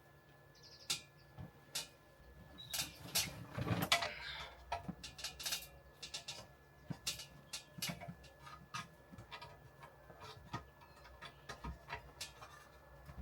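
Hand work with wood and tools: scattered light clicks, taps and small knocks, with a brief scraping rustle about four seconds in.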